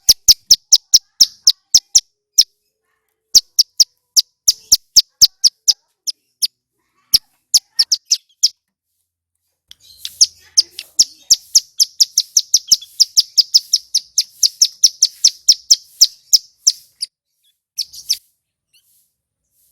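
Male ciblek gunung (a mountain prinia) singing: sharp, high, clicking notes in quick series with short pauses, then a longer, faster run of notes in the middle.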